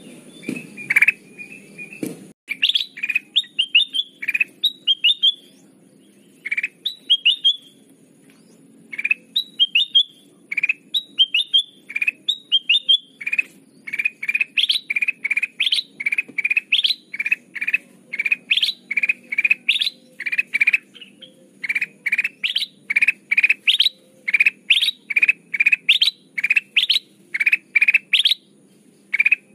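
Kutilang emas bulbul calling in a rapid run of short, bright notes, a few a second with brief pauses. This is a lure call, used by bird catchers to draw in wild birds.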